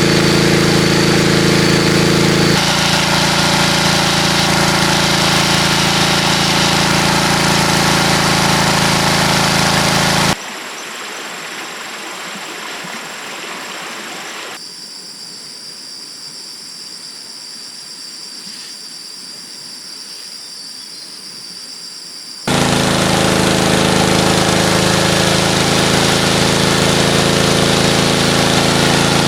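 A small engine running steadily at a constant speed. About ten seconds in it cuts off abruptly to a quieter steady hiss with a thin high tone, and the engine sound comes back abruptly about twelve seconds later.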